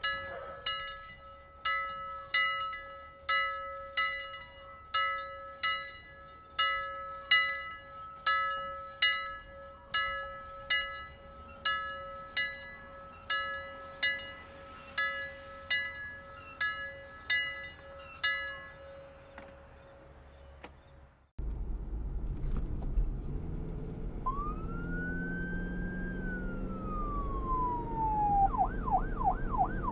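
An alarm tone repeating about one and a half times a second, each pulse dying away, over a steady hum; it fades out. About 21 s in, a vehicle siren takes over above a low traffic rumble, wailing up and down and then switching to a fast yelp near the end.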